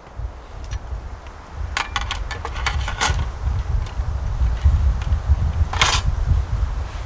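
Gear being handled: a run of light clicks and clatter about two to three seconds in, and a short scrape near the six-second mark, over a steady low rumble.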